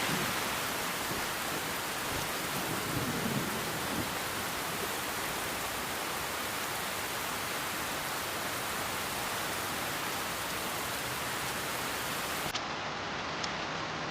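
Steady heavy rain pouring down, an even dense hiss. About twelve and a half seconds in, it gives way abruptly to a thinner hiss with two short clicks.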